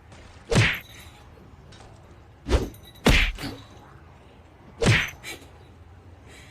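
Four sharp thumps: one about half a second in, two close together around two and a half to three seconds, and one near five seconds.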